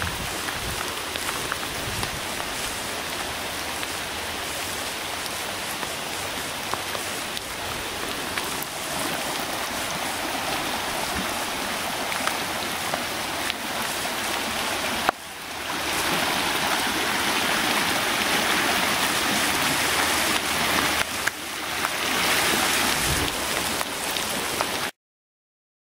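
Steady hiss of heavy rain falling on floodwater and leaves, with running water over a flooded trail. After a sharp click about fifteen seconds in, the rain is louder, and the sound cuts off abruptly near the end.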